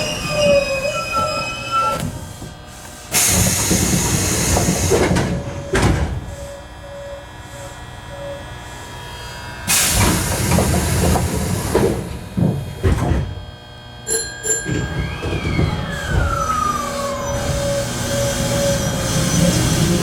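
Sanyo Electric Railway electric train running on the rails, with two long rushes of noise around 3 and 10 seconds in and a falling whine about 15 seconds in.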